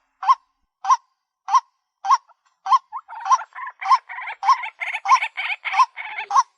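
White-breasted waterhen calling: a short hooked note repeats monotonously about every 0.6 s. From about halfway in, a denser, harsher calling fills the gaps between the notes.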